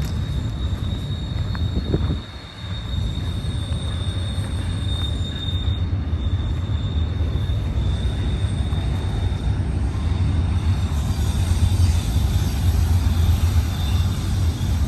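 BNSF freight train rumbling steadily along the curve, growing louder toward the end, with a steady high-pitched squeal over the rumble.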